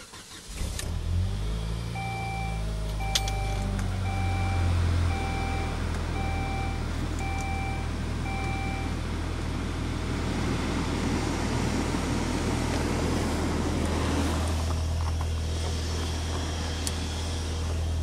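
Saab engine cold-starting at 4 degrees: a brief crank, it catches within the first second and settles into a steady fast idle. A two-tone dashboard chime dings about once a second for several seconds early on.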